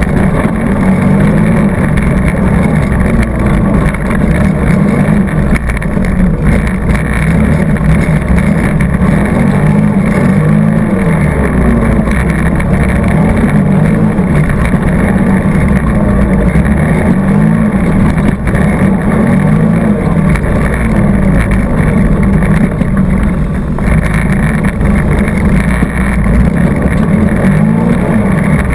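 ATV engine running continuously as it is ridden over trails. Its pitch rises and falls as the throttle changes, over a steady rush of noise.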